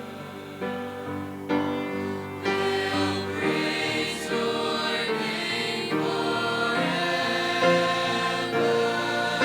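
College choir singing a gospel worship song in full harmony, the sound building in steps over the first few seconds and then holding strong.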